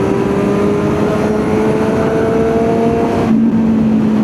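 Kawasaki Z900 inline-four engine under way, its pitch climbing steadily as it accelerates, then dropping suddenly about three seconds in, as at an upshift, and running on at a lower steady pitch.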